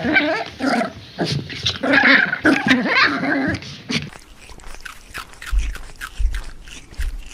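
A dog vocalising in a run of short, wavering pitched calls for about four seconds, followed by rapid clicking and a few low thumps.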